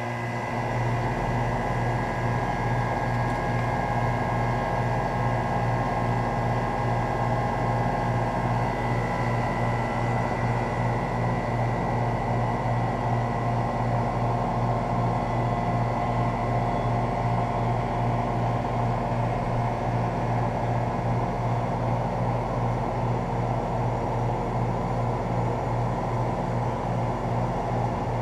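2007 Guardian 4-ton central air conditioner outdoor unit starting up, its Bristol reciprocating compressor and A.O. Smith condenser fan motor coming on in the first second and then running steadily. A strong, even low hum runs under the fan noise.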